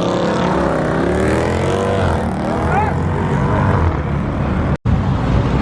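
A car engine revving hard as it accelerates away, its pitch climbing over the first couple of seconds. The sound drops out abruptly for a moment near the end.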